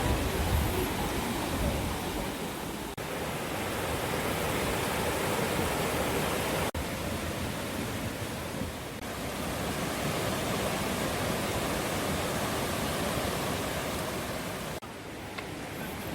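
Mountain valley stream flowing: a steady rushing water noise, broken by a few brief dips in level.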